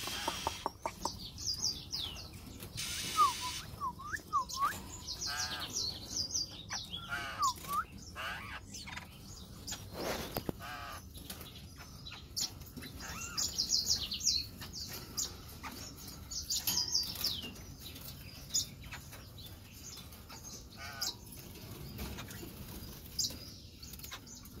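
Caged birds chirping: many short high chirps, some falling in pitch, and a few lower whistled notes, with wings fluttering and light clicks against the cage.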